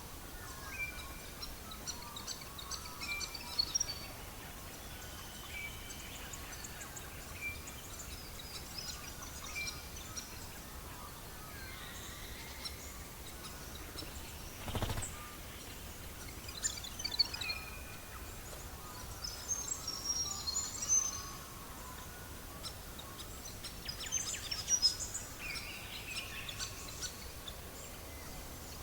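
Songbirds calling over a faint steady background noise. One bird repeats a short high note every second or two, and others break in with bursts of quick chirps. A single sharp knock comes about halfway through.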